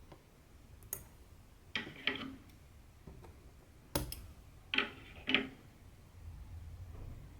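Hand cross-stitching on 14-count fabric: about six separate soft clicks and taps as the needle pushes through the taut cloth and the thread is drawn through.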